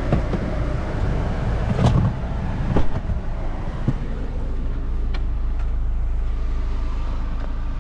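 Car engine idling steadily, with a few short knocks and clicks over it, the loudest about two and three seconds in.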